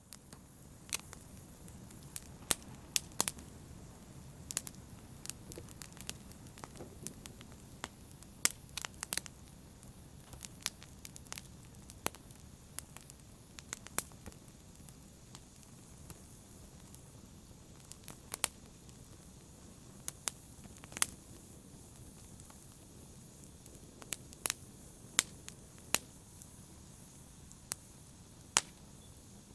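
Wood fire burning in a fireplace: sharp, irregular pops and crackles, sometimes in quick clusters, over a steady low rush of flame.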